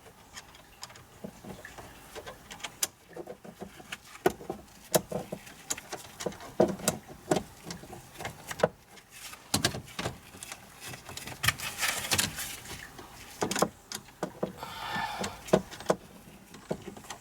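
Scattered clicks, taps and small metallic rattles of the ignition key and lock cylinder being worked by hand, turning the key a notch and pushing on the cylinder's release pin to free it from the steering column, with a brief rustle partway through.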